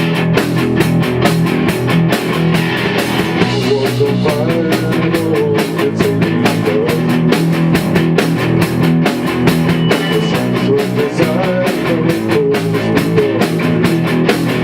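A rock band playing punk rock: guitar and drum kit over a steady, fast beat.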